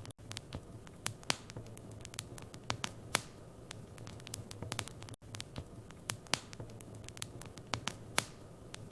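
Wood fire in a fireplace crackling, with irregular sharp pops and snaps over a low steady rumble. The sound cuts out for a moment about five seconds in.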